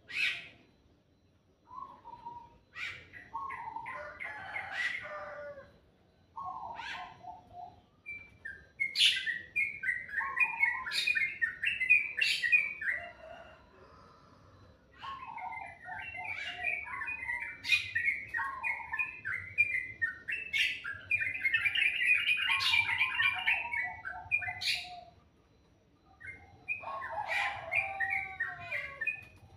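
Songbirds singing: runs of quick chirping phrases with sharp high notes between them, broken by a few short pauses.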